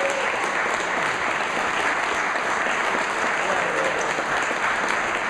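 A roomful of people applauding steadily, with a few voices mixed in.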